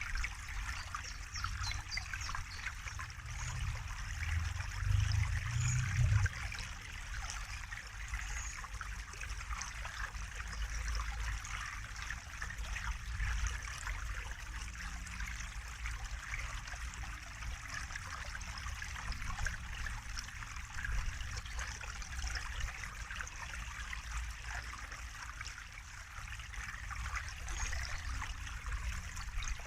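Running water trickling and splashing steadily, like a small stream, with a low rumble underneath that swells for a couple of seconds about four seconds in.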